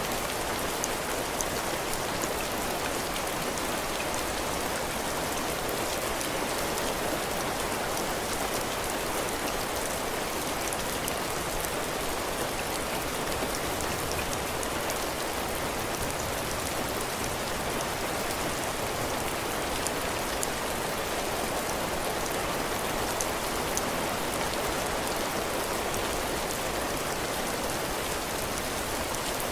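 Heavy rain falling steadily on a cabin porch, drops hitting the roof and the floor: an even, unbroken hiss with fine drop ticks through it.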